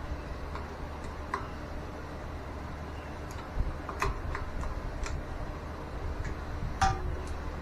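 Irregular light clicks and taps of tools and metal fittings being handled, the sharpest one near the end, over a steady low hum.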